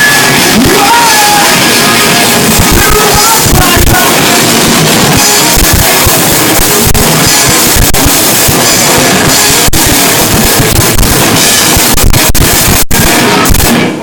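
Loud live rock band playing: distorted guitars and drum kit with some singing, recorded very hot and dense. There is a split-second dropout near the end.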